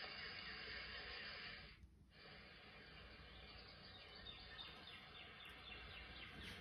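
Faint steady background hiss that drops out briefly about two seconds in, with faint high chirps repeating in the last couple of seconds.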